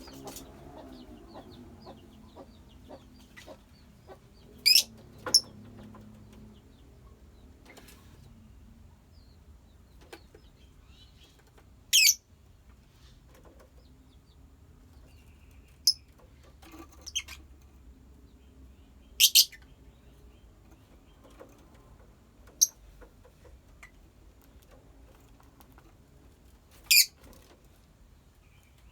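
Lovebirds giving short, shrill, high-pitched single calls, one every few seconds, about eight in all, over a faint background of softer chirping.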